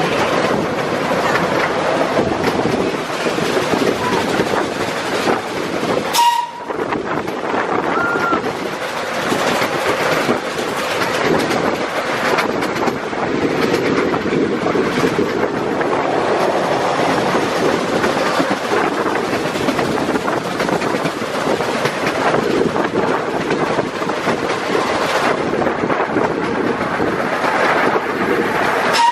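Steam-hauled miniature park railway train running along its narrow-gauge track, heard from an open passenger car: a steady rumble and rattle of the wheels on the rails, with a brief dip about six seconds in.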